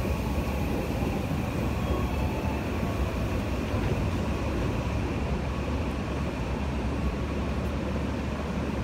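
Odakyu electric commuter train pulling out of the platform, a steady rumble as the cars roll past.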